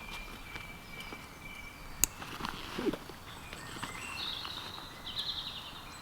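Woodland birds singing: a thin held whistle near the start and a rapid high trill later on, with one sharp click about two seconds in.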